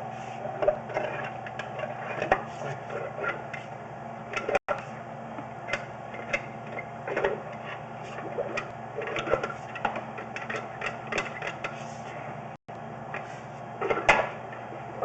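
Sewer inspection camera being pushed down a kitchen drain line: irregular clicks and knocks as the push cable and camera head rattle along the pipe, over a steady mechanical hum, with a louder cluster of knocks near the end.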